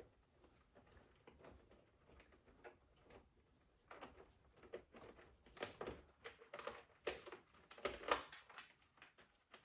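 Irregular small clicks, taps and light knocks of plastic parts and tools being handled while a coffee machine is taken apart, thickest and loudest in the second half.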